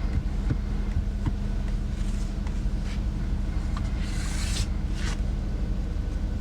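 Steady low hum of the Jeep Compass's 2.0 diesel engine idling, heard from inside the closed cabin. A few faint clicks and a short rustle come about four seconds in, as an alcohol wipe is rubbed across the touchscreen.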